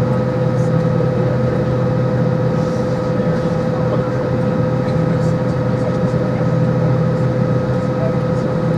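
Steady cabin drone inside an Airbus A320-200, the running engines and air conditioning making a low hum with a constant mid-pitched whine over it.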